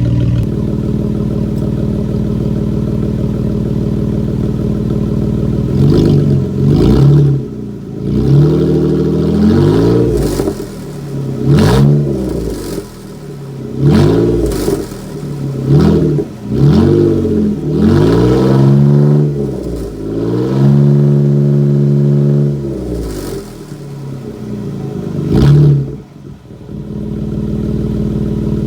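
Jeep engine running with no muffler, the exhaust dumping out a short pipe just past the transfer case. It idles for about six seconds, is then revved again and again, each rev rising and falling, and settles back to idle near the end.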